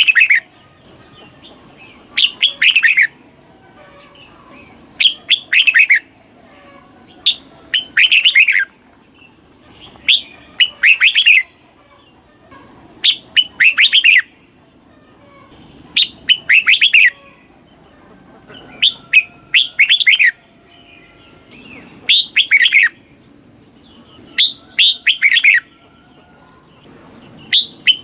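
Red-whiskered bulbul singing loud, short phrases of a few quick notes, each phrase about a second long and repeated roughly every three seconds.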